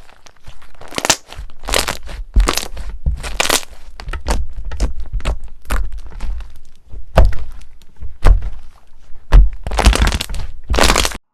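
Crunchy slime or drying clay being pressed and squeezed, giving dense crackling with sharp cracks and several louder crunches. It cuts off abruptly near the end.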